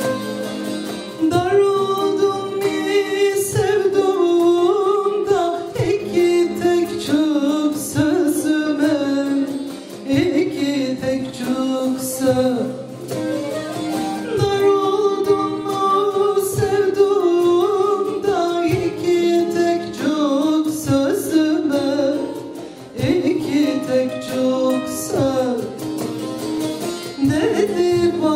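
A Turkish folk song (türkü) performed live: singing over a folk ensemble of plucked string instruments, the vocal line sliding and ornamenting between notes.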